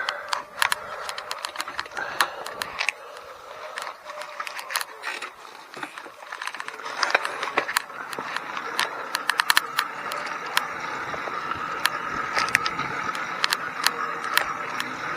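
Motorized bicycle with a YD100 two-stroke kit engine getting under way, rattling and clicking throughout. A steady hum builds in the second half and grows louder toward the end.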